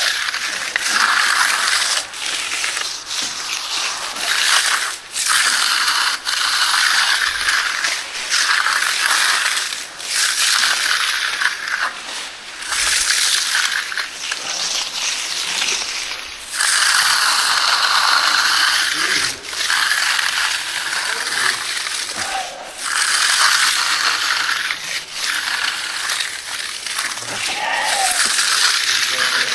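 Steel hand trowel scraping across setting concrete in repeated sweeping strokes, each lasting about one to three seconds with brief pauses between, as the slab is hand-finished after the first pass.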